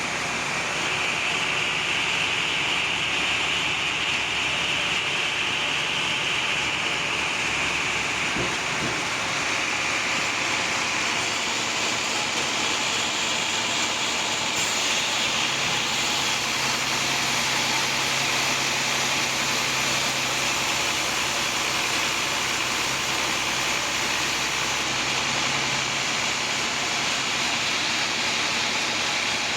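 Sawmill saw running through a large teak log: a steady, noisy cutting sound with a faint low hum joining in about halfway.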